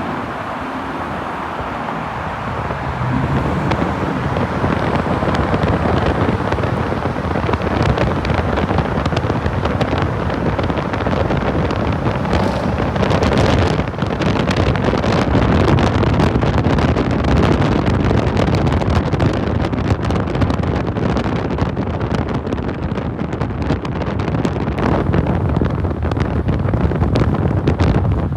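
Ford Mustang GT's 5.0 V8 running under way, its engine rumble mixed with heavy wind buffeting on the microphone.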